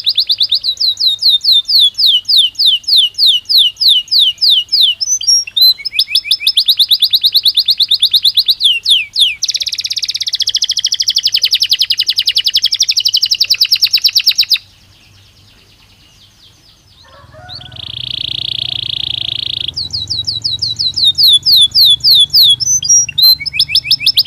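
Belgian canary singing: fast trains of repeated chirps, a buzzy rolling stretch, a short pause, then a held whistled note before the rapid repeated notes start again.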